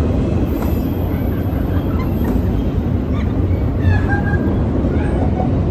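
Steady low rumble of a train on the BNSF line running near the depot, with a few faint brief higher squeaks over it.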